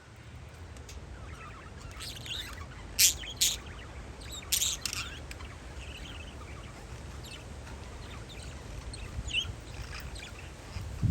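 Parakeets chirping outdoors, with a few loud, sharp calls about three to five seconds in and scattered fainter chirps after, over a steady low rumble.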